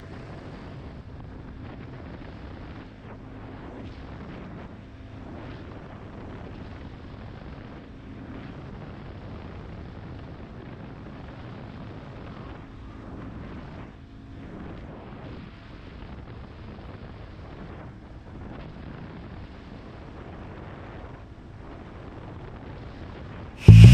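Motorcycle riding at road speed: steady wind rush over the microphone with the engine's low, even drone beneath. Loud guitar music cuts in suddenly at the very end.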